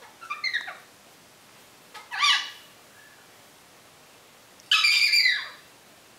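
African grey parrot calling: a soft short call, then two loud whistling squawks, the last one longer and falling in pitch at its end.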